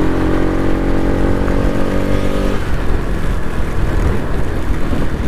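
Motorcycle riding with its engine running at a steady pitch; the engine note drops away about two and a half seconds in. A low rumble of wind noise runs under it.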